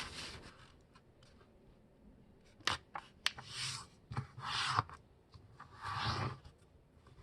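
A sheet of letter-size paper being folded in half and creased: a few sharp crackles of the paper, then three brushing strokes as the fold is pressed flat.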